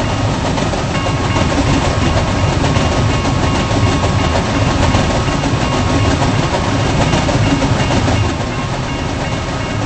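Freight train of intermodal stack cars rolling past steadily, a continuous rumble of wheels on rail with a clickety-clack over it, dropping a little in loudness near the end.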